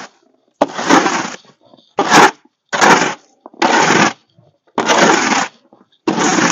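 Footsteps crunching through fresh snow, one step about every second.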